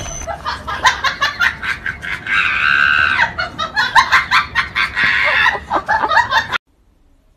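A crowd of onlookers shouting and screaming excitedly, many voices overlapping, with high cries standing out; it stops abruptly shortly before the end.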